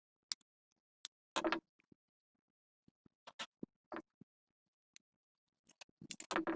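Scattered clicks, taps and short scrapes of hand tools and small metal parts being handled during work on the generator. There is a longer rattle about a second and a half in and a quick cluster of clicks near the end.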